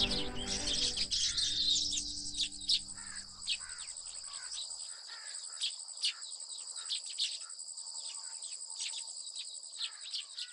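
Steady high-pitched insect trilling with many short bird chirps over it, as a natural ambience; background music fades out over the first few seconds.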